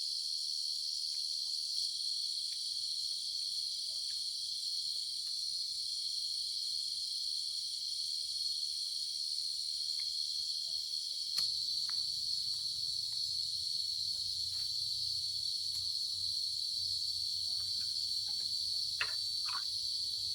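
Crickets chirring in a steady, unbroken high chorus, with faint scattered clicks; a low hum comes in about halfway, and a few sharper clicks sound near the end.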